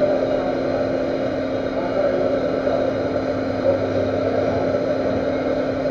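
Metal lathe running at low spindle speed, turning the hard weld build-up on a steel tube: a steady machine hum with one constant tone.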